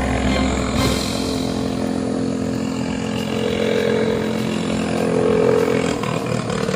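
Small engine of a fire boat running steadily at speed, a continuous mechanical drone.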